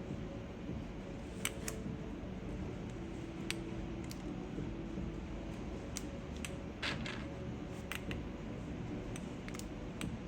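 Plastic keycaps being fitted onto mechanical keyboard switches: about eight sharp, separate clicks spread irregularly over a steady low background hiss.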